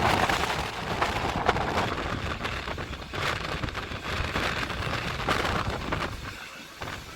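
Ride noise of a moving train heard from inside a passenger carriage: a steady rushing rumble of wheels and air, scattered with many small clicks and rattles. It drops away briefly near the end.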